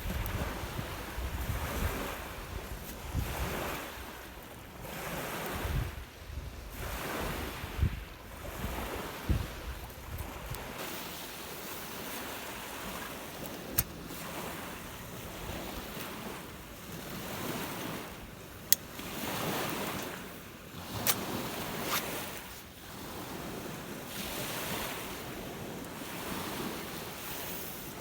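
Rough lake waves breaking on the shore, surging and falling back every few seconds, under strong wind. Wind buffets the microphone with a low rumble for the first ten seconds or so. A few sharp clicks are heard.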